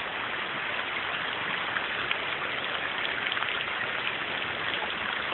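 Rain falling steadily, an even dense patter of drops.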